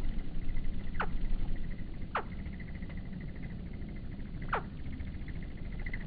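Bird calls: three short, high chirps, each falling quickly in pitch, over a faint, steady high trill.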